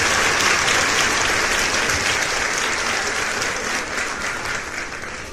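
Applause, starting suddenly and fading out gradually.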